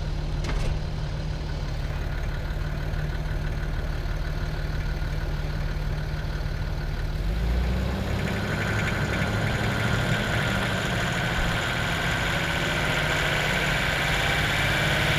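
A 4x4's engine idling, then revving up under load about halfway through as the vehicle tries to climb a slippery slope over traction boards. A higher whine joins and grows louder toward the end.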